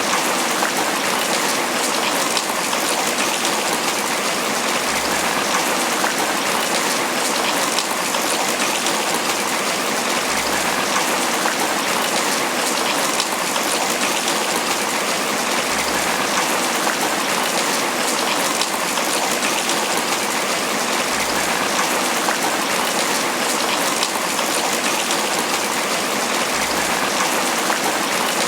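Steady tropical rain falling on banana leaves, a dense even patter that does not let up.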